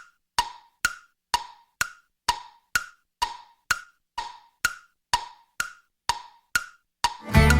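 Evenly spaced sharp ticking clicks, each with a short ring, about two a second, fourteen in all. Music starts near the end.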